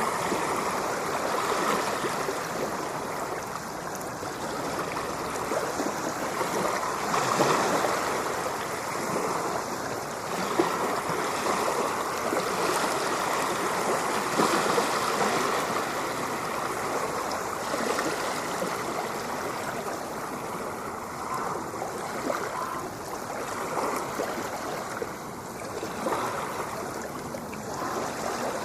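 Ocean waves washing in, a continuous rushing of water that swells and eases slowly, loudest about a third and half of the way through.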